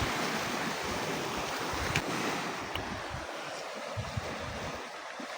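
Steady rush of sea surf and wind, with gusts of wind buffeting the microphone in low rumbles.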